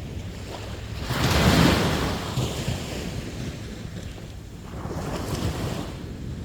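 Sea waves breaking on the shore: one loud break about a second in that washes out over a couple of seconds, and a smaller one near the end. A low wind rumble on the microphone runs underneath.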